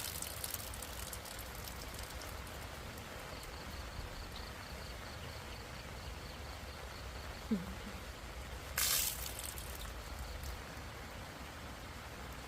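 Steady rain falling, an even hiss, with a brief sharper rustle about nine seconds in.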